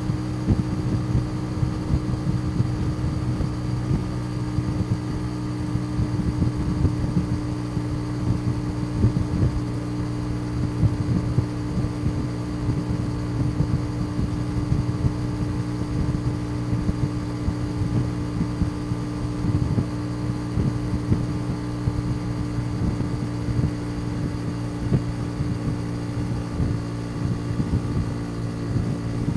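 Custom motorcycle's engine running at a steady cruising speed under way, an even drone that holds its pitch with no revving up or down.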